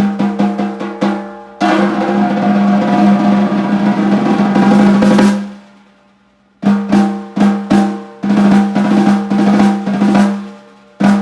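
Oak stave snare drum, 6.5 x 14 inches, being played: a run of single strokes, then a sustained roll from about two to five seconds in, then more strokes and short rolls, ending on a single hit. The drum rings with a clear, steady tone under each stroke.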